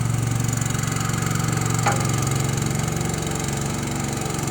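A small engine running steadily at idle, with one brief tap about two seconds in.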